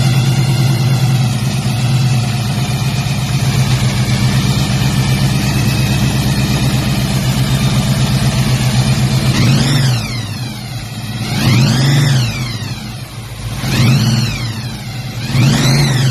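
1969 Plymouth Road Runner's V8 idling steadily just after a cold start, then revved in four short blips about two seconds apart from about ten seconds in, each rising and falling in pitch.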